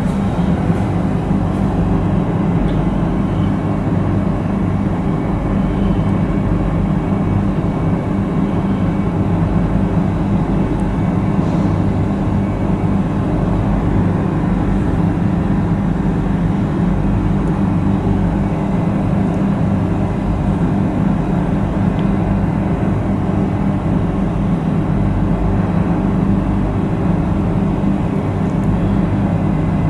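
Steady low machinery drone with a hum, holding at the same level throughout, typical of a ship's engines and ventilation heard on board.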